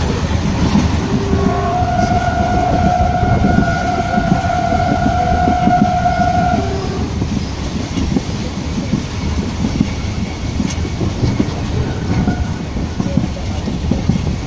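Train running, heard from inside a carriage with an open window: a steady rumble and rattle of the wheels on the track. About two seconds in, the train's horn sounds one long blast lasting about five seconds.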